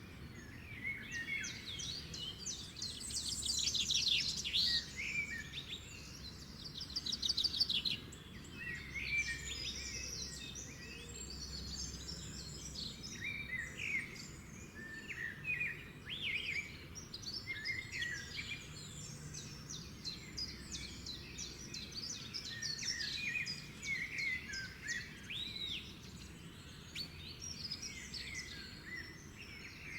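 Several songbirds chirping and trilling together, a busy chorus of short calls and quick trills, over a steady low background rumble.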